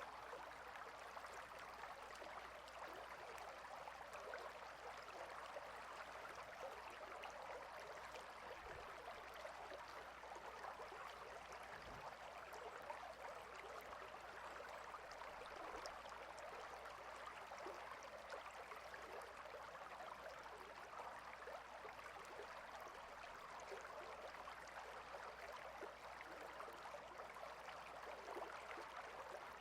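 Stream water flowing and babbling in a steady, faint rush.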